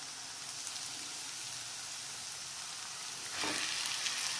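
Onion-tomato masala frying in oil in a kadai, a steady sizzle. About three seconds in the sizzle gets louder as minced mutton is tipped into the pan.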